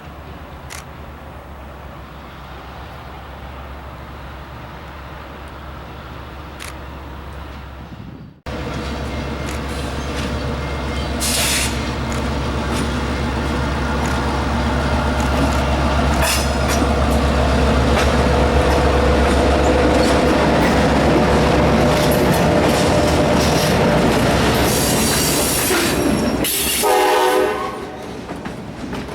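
A diesel freight locomotive, an EMD GP38, drones at a distance, then, after a cut about eight seconds in, passes close, its engine louder and rising while the railcar wheels roll and squeal on the rails. A short horn blast sounds near the end.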